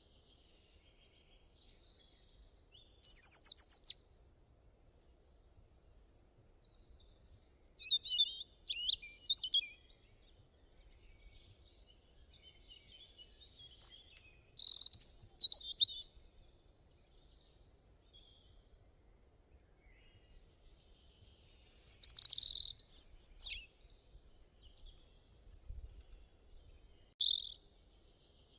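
Small songbirds singing in short bursts of high chirping, warbling song, a few seconds apart.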